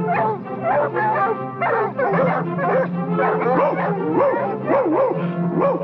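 A pack of cartoon hunting dogs barking rapidly, several at once, over orchestral music.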